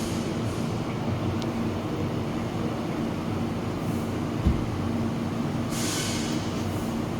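Steady low machine hum, with a single thump about four and a half seconds in and a brief hiss about a second later.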